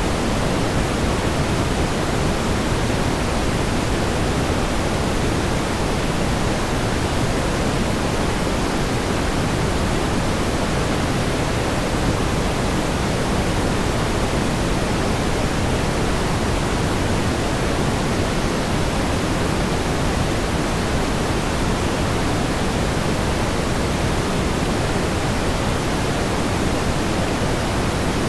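Synthetic pink noise: a steady, even hiss with more weight in the low end than the high, unchanging throughout.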